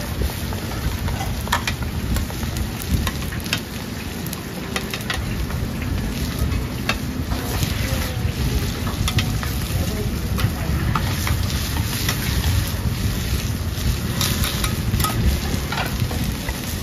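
Food sizzling and crackling as it fries in hot oil, with scattered sharp crackles over a steady low rumble.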